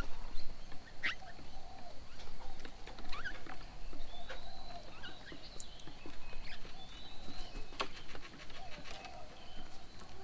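Several birds chirping and calling: many short chirps and quick up-and-down pitch sweeps, with a few sharp ticks. A thin high steady tone runs under them.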